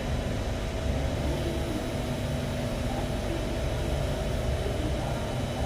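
Steady rumble and hum inside the carriage of an Alstom Metropolis C751A metro train, with a few faint steady tones over the noise.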